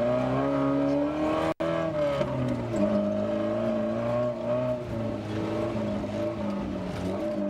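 Engine of a GAZ off-road rally car heard from inside the cab, working hard through soft sand. The revs climb over the first second and a half, the sound drops out for an instant, and then the revs keep rising and falling.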